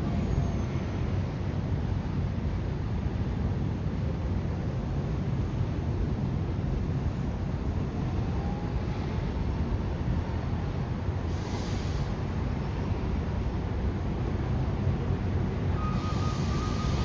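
Steady low rumble of city outdoor background noise, with a brief faint hiss partway through and a faint high steady tone coming in near the end.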